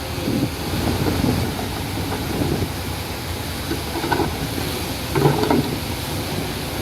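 Diesel engines of heavy earthmoving machinery running steadily, with wind buffeting the microphone. Two brief louder sounds come through about four and five seconds in.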